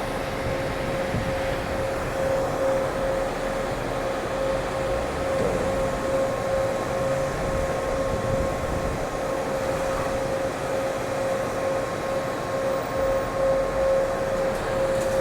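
Car wash machinery running: a steady whirring drone with a constant whine on top.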